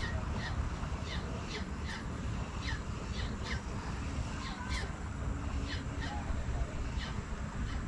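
A bird calling repeatedly in short, falling notes over a steady low rumble.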